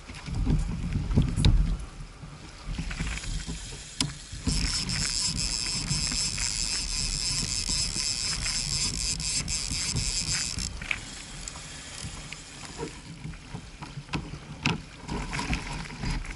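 A fishing reel's drag buzzing for about six seconds as a fish pulls line off, starting and stopping abruptly, with wind rumble and water knocks on the microphone around it.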